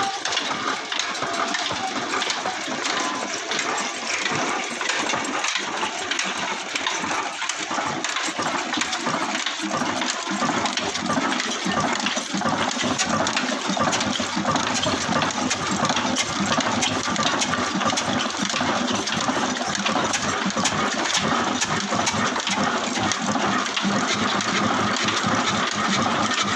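Kala diesel engine running steadily, a continuous clattering run with no let-up.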